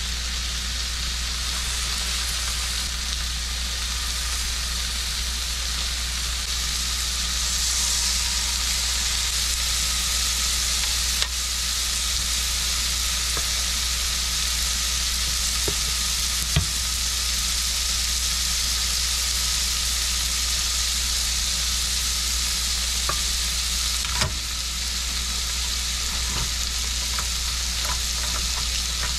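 Pancake batter sizzling in a hot pan: a steady high frying hiss, with a steady low hum underneath and a few light clicks.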